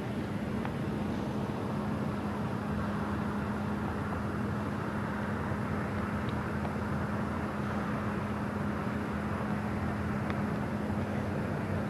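A steady machine hum over a constant rushing noise, with a few faint clicks.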